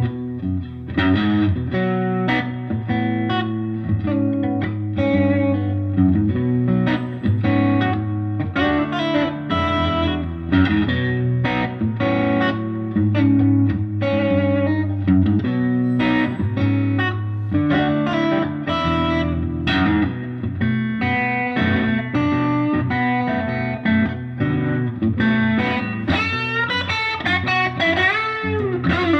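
Electric guitar, a Fender Stratocaster through a Koch amplifier, playing a B minor blues shuffle over a looped rhythm part, with string bends near the end.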